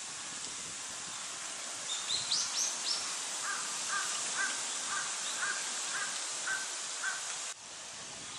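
A crow cawing in a steady run of about nine caws, roughly two a second, over a constant background hiss. A few short high rising notes from a smaller bird come just before the caws.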